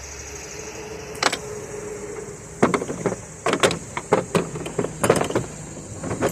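Handling clatter at a workbench while a chainsaw is being put back together: a single click, then a quick string of sharp knocks and clicks from tools and parts, over a steady high-pitched background chirp.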